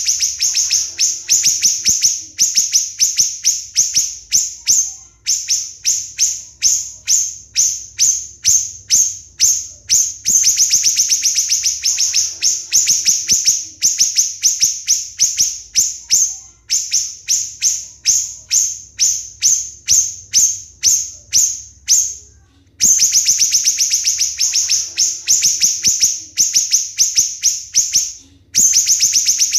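Siri-siri bird in rapid, tightly packed song: long runs of sharp, shrill, high notes at about five a second, each note a quick downward slur. There are short breaks in the runs about five seconds in, about twenty-two seconds in and near the end. These are the rapid 'tembakan' (shot) notes that keepers use to tutor murai batu, kacer and cucak ijo.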